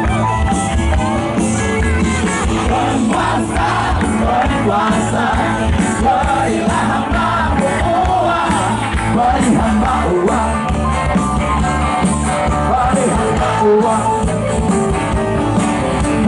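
Live rock band music with singing, played at a steady loud level.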